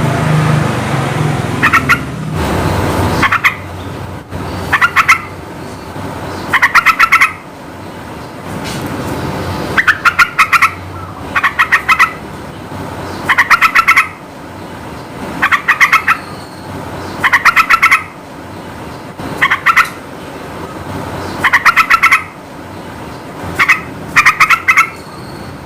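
Yellow-vented bulbul (trucukan) singing: short bubbly bursts of quick chattering notes, repeated about every two seconds, over a steady low background noise.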